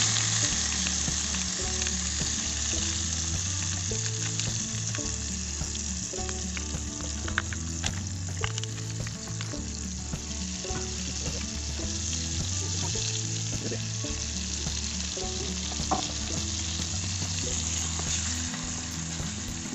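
Spice paste and powder frying in hot oil in a small aluminium pot: a loud, steady sizzle, with a few sharp clicks along the way and a wooden spatula stirring near the end.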